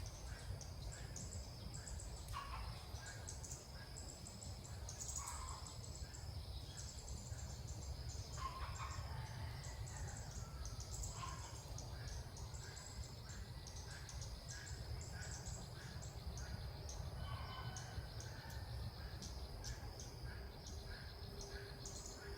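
Bulbuls calling: scattered short chirps and a few louder calls that drop in pitch, over a steady low rumble of wind or background noise and a thin steady high tone.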